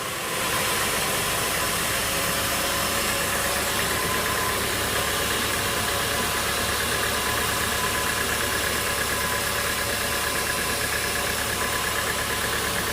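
Sawmill machinery running steadily, a continuous motor noise with a few faint steady whines. It gets a little louder just after the start.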